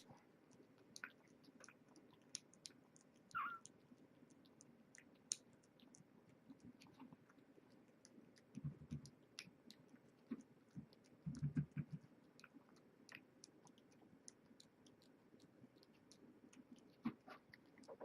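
Faint, irregular wet chewing and lip-smacking clicks from kittens eating wet cat food out of a shared bowl. Twice, about halfway through, there are a few soft low thumps.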